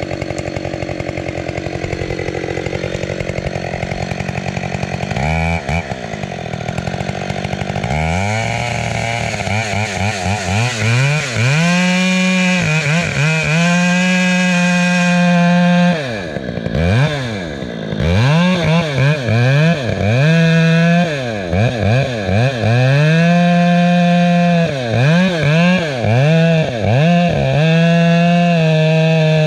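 Two-stroke chainsaw running, at first unevenly at lower speed. About five seconds in it begins to be throttled up repeatedly, holding full speed for a few seconds at a time and dropping back between pulls.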